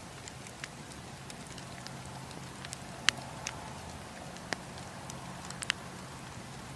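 Wood campfire crackling: irregular sharp pops and snaps of burning wood over a steady low rush of flame, with a few louder pops in the second half.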